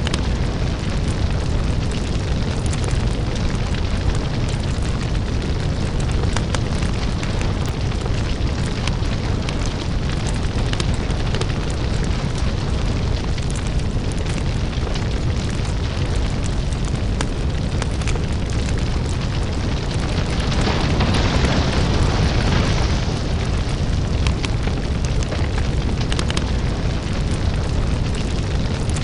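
Crackling lava fire ambience: a steady deep rumble with scattered crackles and pops, and a hissing surge lasting a couple of seconds about 21 seconds in.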